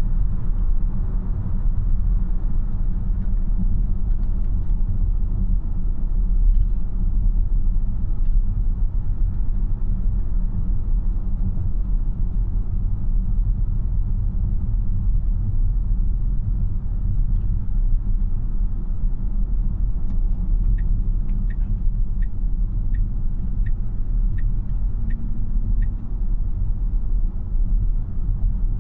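Steady low road and tyre rumble inside the cabin of a 2026 Tesla Model Y AWD on the move; being electric, it has no engine note. Near the end there is a run of about eight evenly spaced ticks, a little under one a second.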